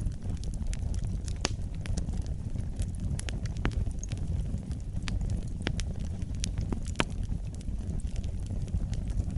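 Wood fire burning in a fireplace: a steady low roar of flames with irregular sharp crackles and pops throughout.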